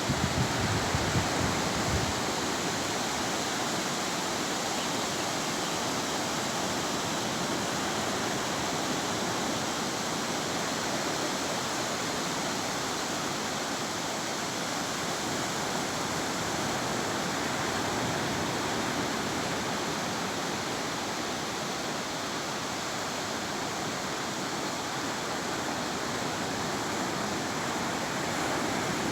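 Steady rushing of sea surf breaking on a beach, holding an even level throughout, with a few low rumbles in the first two seconds.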